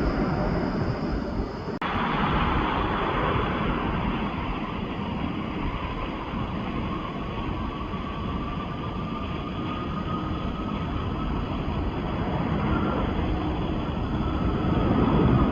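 Jet airliner engines running with a loud, steady roar, with a faint whine that rises slowly in pitch. The sound changes abruptly about two seconds in.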